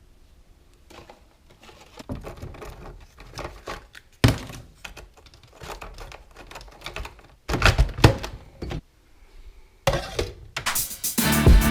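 A series of irregular knocks, clicks and thuds, with a sharp thunk about four seconds in and louder clusters of knocks around eight and ten seconds; music with a beat comes in near the end.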